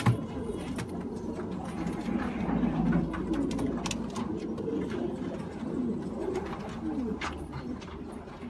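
Domestic pigeons cooing, several birds overlapping continuously, with a sharp knock just at the start.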